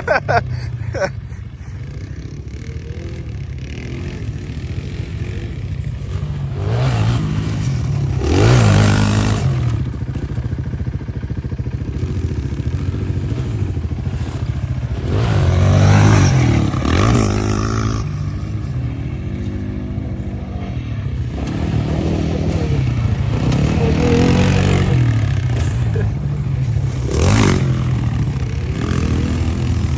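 Utility ATV engines running and revving, rising and falling in pitch, with several louder surges.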